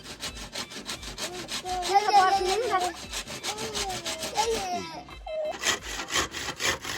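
Rapid, even strokes of a hand tool working wood, about five or six a second, pausing briefly about five seconds in.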